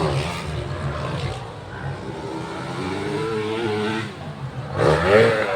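Motocross dirt bike engines revving, their pitch rising and falling, holding fairly steady in the middle and surging again near the end.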